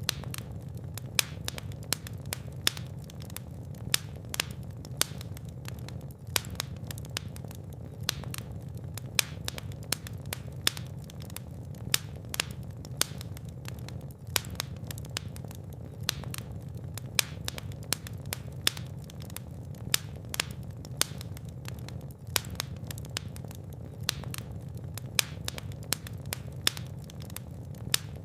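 Fire in a fireplace crackling, with a rapid irregular run of sharp pops and snaps, a few louder than the rest, over a steady low rumble of the flames.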